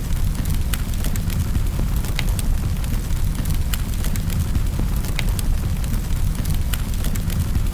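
Wood fire crackling in a fireplace: irregular sharp pops and snaps, about two a second, over a steady low rumble of the burning fire.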